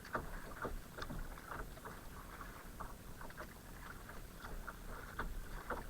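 Small, irregular water splashes and drips around a kayak, with the faint patter of water against the hull and paddle.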